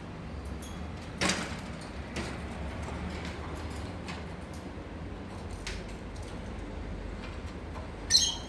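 A lovebird's short shrill call near the end, after a sharp knock about a second in and a few light clicks, over a steady low hum.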